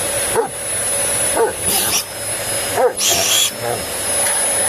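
Vacuum cleaner running steadily while a dog gives three short, high yips at it, about a second apart, with a couple of brief hissing surges from the cleaner in between.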